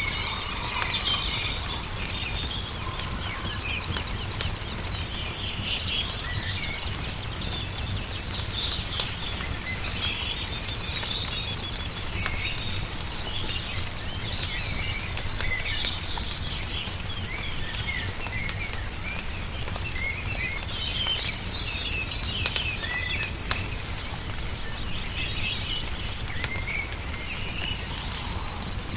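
Wood fire crackling with scattered sharp pops, under a steady chorus of small birds chirping and singing, over a steady low rumble.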